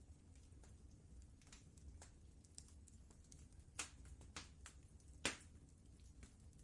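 Wood fire in a fireplace crackling: sparse, irregular pops and snaps, with a few louder ones past the middle, over a steady low rumble.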